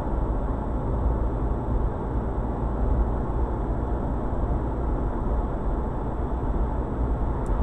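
Steady road and engine noise inside a moving car, picked up by a dashcam microphone, with a faint steady high-pitched whine.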